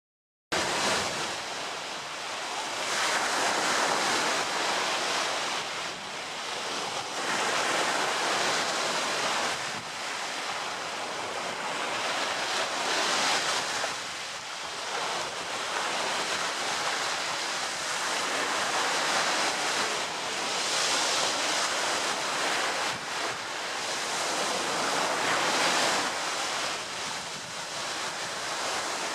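Ocean waves washing onto a shore, a continuous hiss of surf that swells and recedes every few seconds.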